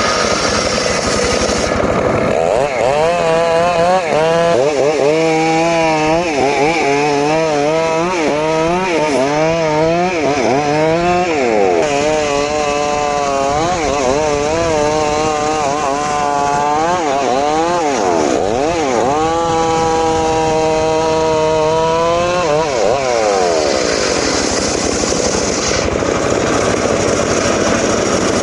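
Engine-driven saw cutting through timber: the engine's pitch repeatedly sags as the blade bites into the wood and climbs again as it frees. It runs steadier and higher near the start and near the end.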